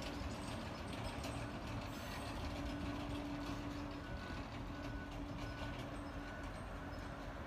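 The Ghan passenger train's carriages rolling slowly past at low speed: a steady rumble of wheels on rail with a low hum and a few light clicks.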